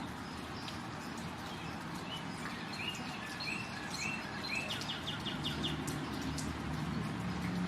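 A songbird singing outdoors: a run of short slurred whistled notes, then a quick trill of about six notes about five seconds in, over a steady low rumble.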